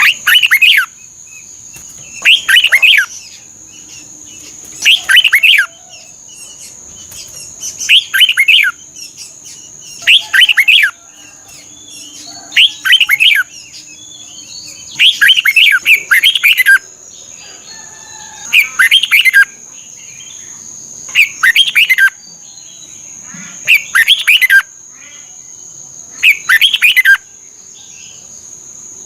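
Red-whiskered bulbul singing, a short phrase of quick falling notes repeated about every two and a half seconds, over a steady high whine.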